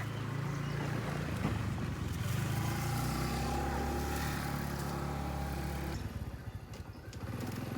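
A motorbike engine running close by, changing note about three seconds in and dipping briefly near the end.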